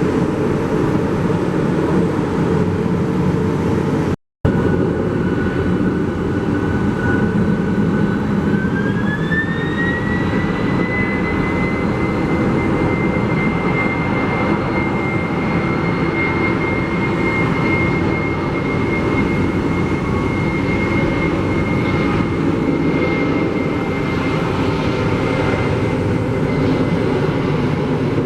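Jet airliner engines running with a steady rumble and a thin whine that glides up in pitch about nine seconds in, then holds steady. The sound drops out briefly about four seconds in.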